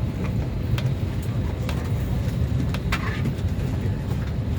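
Steady low hum inside an Airbus airliner cabin during boarding, with passengers murmuring and a few light clicks and knocks.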